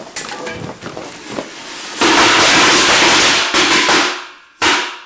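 Fireworks or firecrackers going off: after a few faint clicks, a sudden very loud burst about two seconds in lasts about two seconds and fades, and one more short burst comes near the end.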